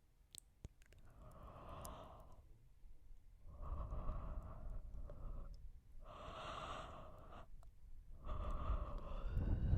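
Close-miked person yawning into the microphone: about four long, breathy, drawn-out yawns and exhales in a row.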